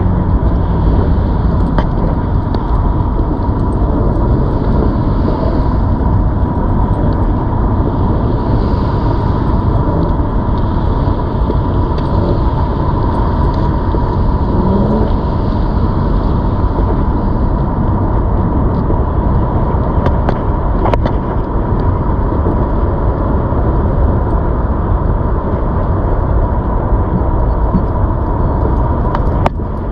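Wind and road noise on the microphone of a moving ZOOZ electric bike, with a steady whine throughout.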